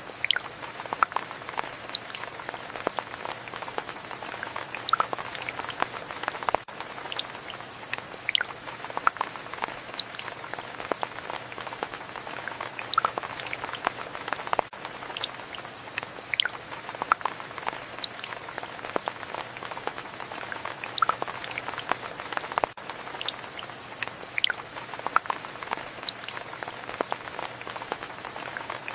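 Rain falling: a steady hiss with many separate drops pattering and ticking on a surface. The same stretch of rain repeats about every eight seconds.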